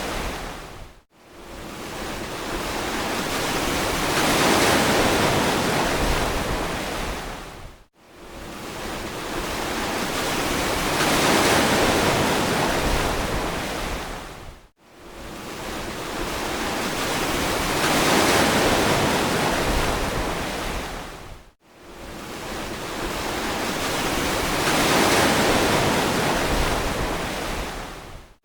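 Ocean surf: a wash of breaking waves that swells up and fades away in a very regular cycle about every seven seconds, with a brief drop almost to silence between swells.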